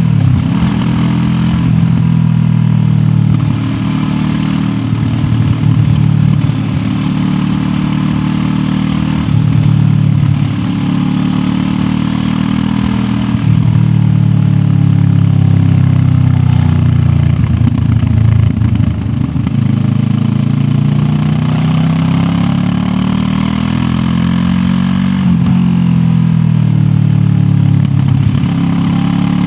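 QJ Motor SRT 700X parallel-twin motorcycle engine under way, its revs rising and falling repeatedly as the throttle opens and closes through the gears, with wind and road noise.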